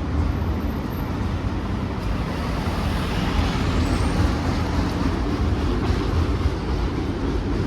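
Freight cars of a long CSX train rolling slowly past: a steady, loud rumble of steel wheels on the rails.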